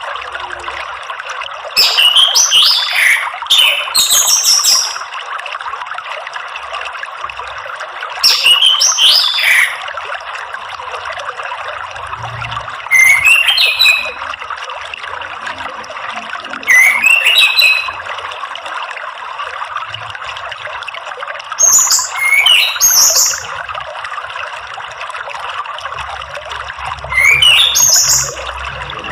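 Orange-headed thrush singing in short phrases of rising and falling notes mixed with high chattering, seven phrases each about a second long, over the steady sound of running water.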